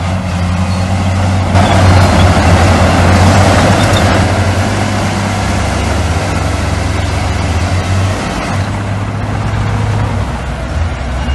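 Heavy construction machinery's diesel engines running steadily, with a louder rushing noise from about one and a half to four seconds in.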